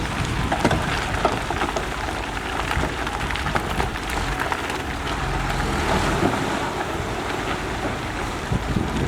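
Heavy construction machinery's engine running steadily, with a loud hiss and scattered crackles laid over it.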